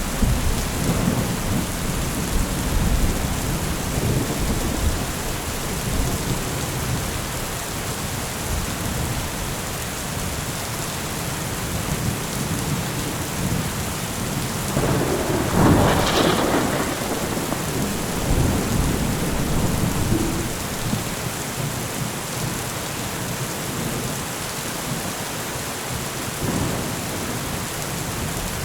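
Steady rain falling, with rolling thunder rumbling under it and a louder thunder peal swelling about halfway through.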